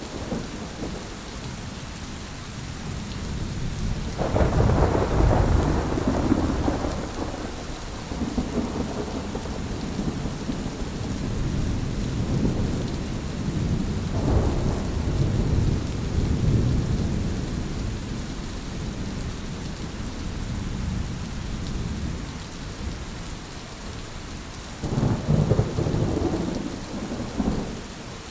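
Steady rain with rolling thunder. The thunder swells into long low rumbles: a loud one about four seconds in, another around the middle, and a strong one near the end.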